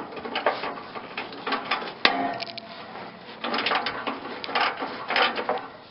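Hand tools working at a stubborn, rusted muffler bolt on the exhaust: irregular metal clicking, knocking and scraping, with one sharp click about two seconds in.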